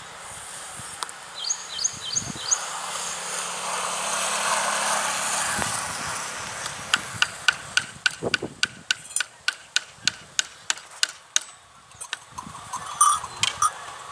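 Outdoor field sounds: a few short chirps early on, a soft rustling hiss, then a rapid series of sharp clicks, about three a second, lasting several seconds, with a few more clicks near the end.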